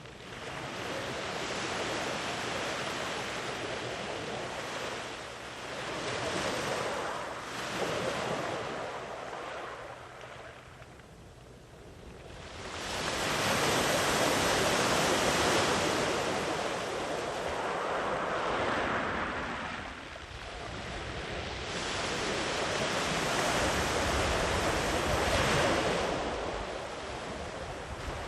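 Ocean waves breaking and washing up a beach in slow, repeated surges, with a quieter lull about halfway through before the next wave comes in louder. Some wind on the microphone adds a low rumble.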